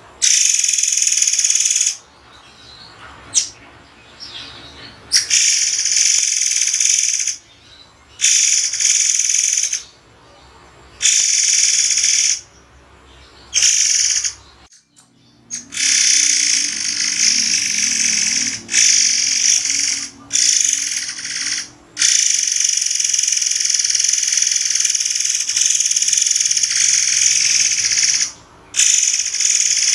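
Murai air songbird singing loud, high, sharp phrases in bursts of a second to several seconds, broken by short pauses, the 'sharp shots with pauses' song style.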